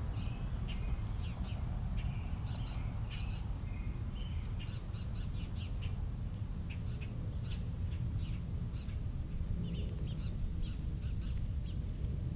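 Songbirds chirping: many short, high calls in scattered clusters, over a steady low rumble.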